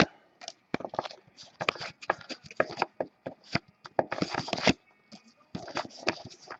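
Trading cards being flipped through by hand: irregular clicks and snaps of card stock, with longer sliding rustles about four seconds in and again near the end.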